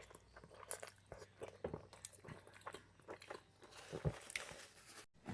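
Close-miked eating: a person biting and chewing, a quick run of wet clicks and crunches, busiest and loudest about four seconds in. The sound cuts out suddenly just before the end.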